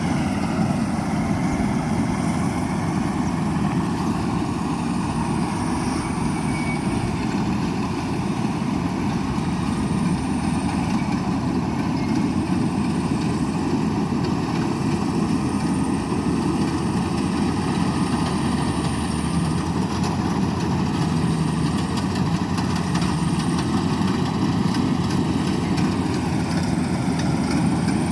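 Combine harvester running steadily during rice harvesting, a continuous engine drone with no change in pace.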